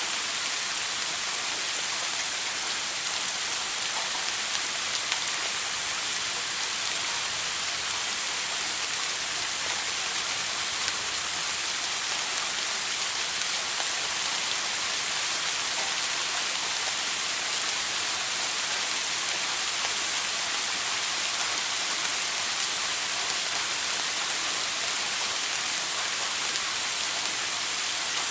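Shower water spraying and splashing down in a steady, unbroken hiss.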